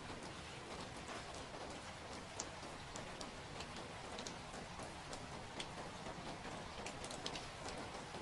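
Steady rain hiss, with irregular sharp ticks of single drops striking a surface.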